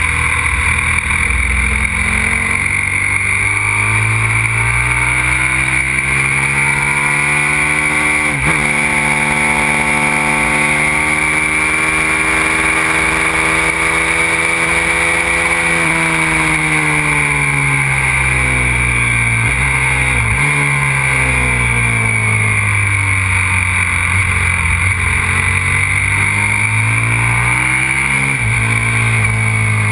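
Aprilia RXV 550 supermoto's V-twin engine at speed, revving up and changing up a gear about eight seconds in, then easing off with two quick downshifts and pulling hard again with another upshift near the end.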